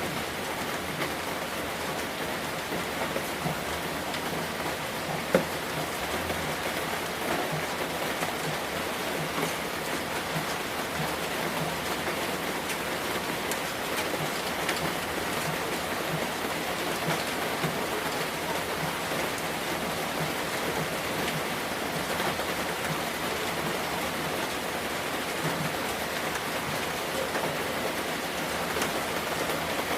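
Steady rain falling on a surface, with many small drop ticks and one sharper drip about five seconds in.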